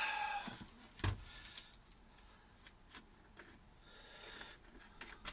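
Light handling sounds while working by hand: a soft thump about a second in, a sharp click just after, then scattered faint clicks and rustles.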